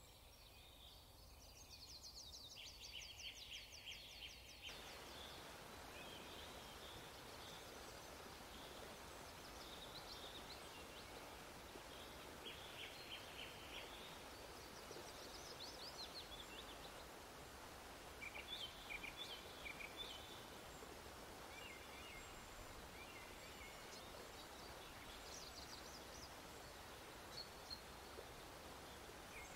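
Faint birdsong: repeated high chirps and trills over a steady hiss, which gets louder about five seconds in.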